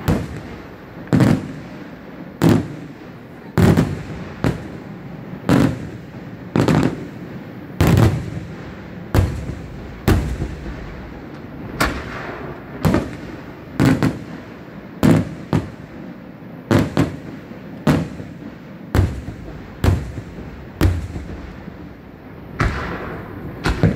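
Aerial firework shells going off in a steady sequence: a sharp bang about once a second, each followed by a short echo.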